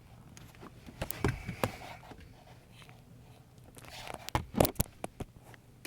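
Scattered light knocks and clicks of hands and plastic trim being handled under a car dashboard, loudest in a cluster about four and a half seconds in, over a faint steady hum.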